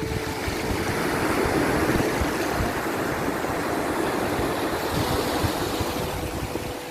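Sea waves washing ashore: a surge of surf rises over the first couple of seconds and then slowly ebbs. Faint, soft held music notes sound underneath.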